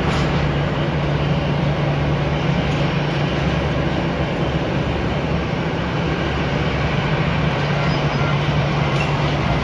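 Jet airliner engines running steadily, a loud even rush with a low hum underneath.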